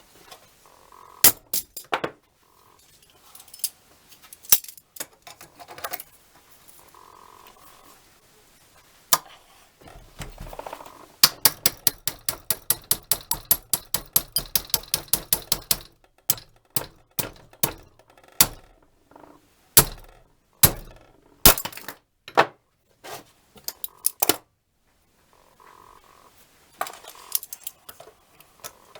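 Sharp metal clicks and clinks from handling a steel monkey wrench and tools. Scattered single knocks, with a quick even run of clicks, about four a second, in the middle.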